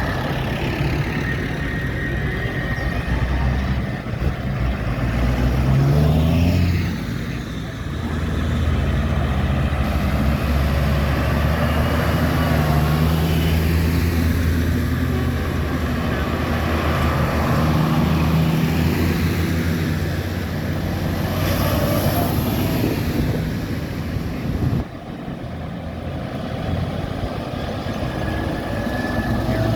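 Tractors and other road vehicles driving past one after another, their diesel engines running, with the engine note rising and falling as each goes by.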